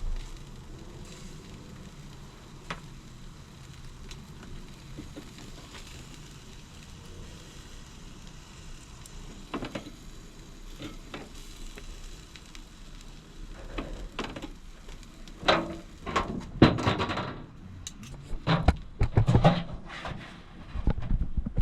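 Chicken sizzling over a barbecue fire: a steady hiss with scattered crackles. In the last several seconds come louder, irregular knocks and rustles.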